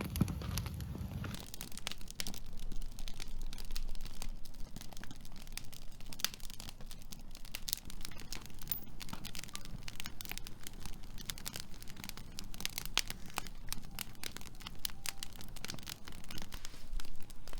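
Firewood burning, crackling with many irregular sharp pops.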